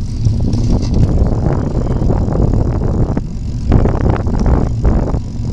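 Wind buffeting the microphone while riding a bicycle: a steady low rumble with irregular gusty surges.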